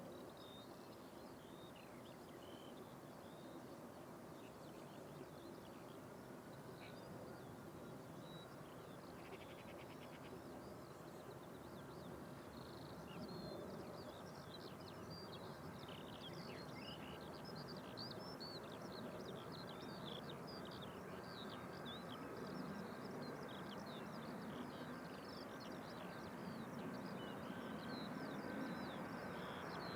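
Birds chirping over the low, steady rumble of distant jet engines, which grows slowly louder, with a faint whine in the second half.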